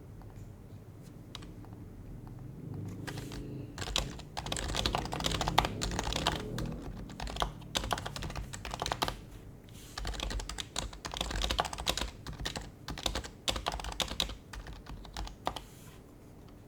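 Typing on an HHKB Professional HYBRID Type-S keyboard, with its quiet, muted Topre key presses. Two fast runs of keystrokes are separated by a short pause about halfway through, and the typing stops near the end.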